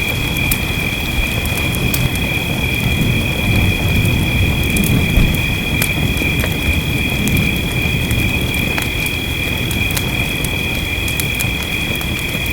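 Wood fire crackling with scattered sharp pops over the steady low rumble of rain. A steady high-pitched ringing in two close tones sits on top.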